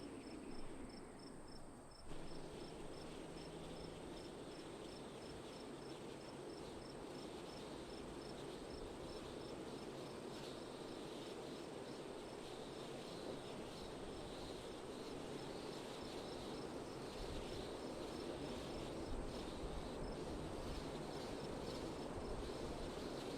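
Wind blowing steadily, with a high, regular chirping about three times a second over it.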